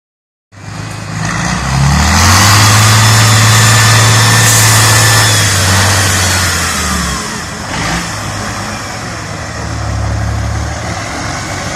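Heavy competition truck's engine revving hard under load: the revs climb about two seconds in and hold high, ease off around seven seconds, then rise again briefly near ten seconds. A single sharp clunk comes just before the eight-second mark.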